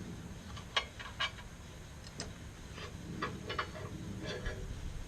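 Scattered light metallic clicks and clinks, irregular, about one or two a second, as an engine hanging from a hoist is lowered into the car.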